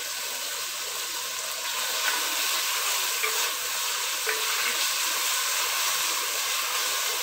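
Shallots, tomato and curry leaves sizzling in hot sesame oil in a clay pot. The sizzle grows louder about two seconds in as a wooden spatula starts stirring, with a few light knocks of the spatula against the pot.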